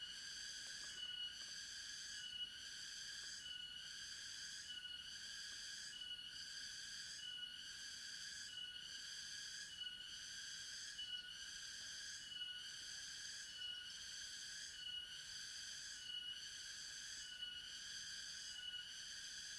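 A forest animal's high-pitched call, repeated steadily a little less than once a second with a short break between each call and no change over the whole stretch.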